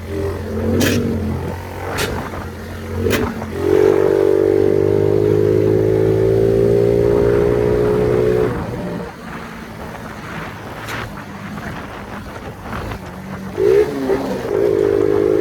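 Phoenix 50cc moped engine held at high revs, its pitch rising slightly, from about 4 s to 8.5 s, then dropping back and picking up again near the end. Sharp pops from the exhaust popper come a few times early on and once more about 11 s in.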